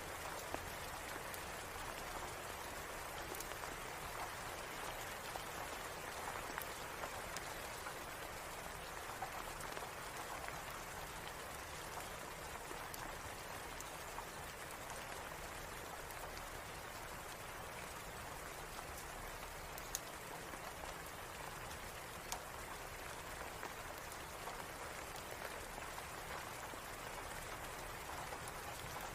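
Steady rain falling, an even hiss of drops with a few sharp clicks now and then.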